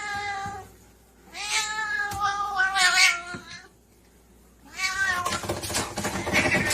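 A cat meowing in long, drawn-out calls: one trails off at the start, a second about a second and a half in, and a third near the end that turns harsher.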